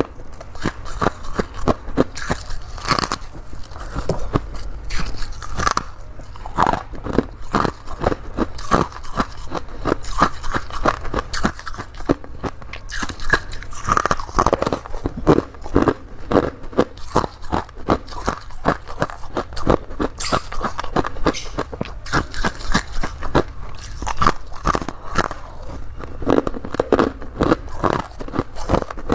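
Crunchy humidifier frost being bitten and chewed quickly: a rapid, unbroken run of crisp crunches, several a second.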